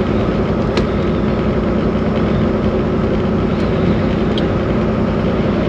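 Steady drone of a Volvo VNL 860 semi truck cruising on the highway, heard inside the cab: engine, road and wind noise, with a few faint ticks.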